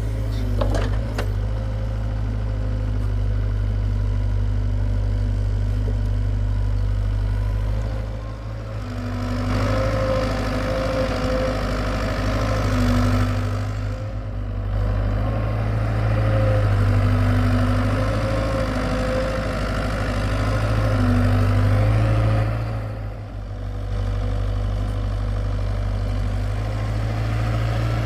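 Hitachi EX75UR excavator's diesel engine running steadily, working up under hydraulic load twice for several seconds at a time, in the middle and again later, then dropping back. A brief knock sounds at the very start.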